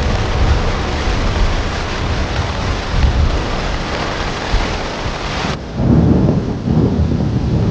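Heavy rain hissing with low thunder rumbling underneath. About two-thirds of the way through, the rain noise cuts off abruptly and a deep rolling thunder rumble swells up.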